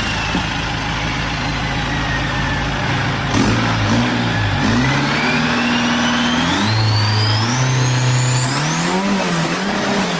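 Isuzu 4JJ1 turbo-diesel engine running and revving, its pitch jumping up in steps and then wavering up and down near the end. A high whistle fades downward at the start, and from about halfway another whistle climbs steadily.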